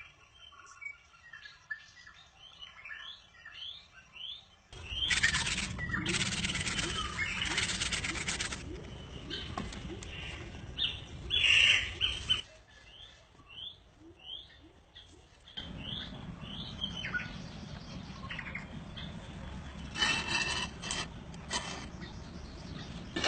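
Small birds chirping repeatedly in short calls, over a background that shifts abruptly. There are louder bursts of broad noise about five to eight seconds in and again near the end.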